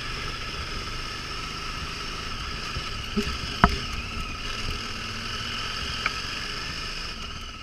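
Adventure motorcycle engine running steadily at low speed on a slow climb, with a sharp knock about halfway through.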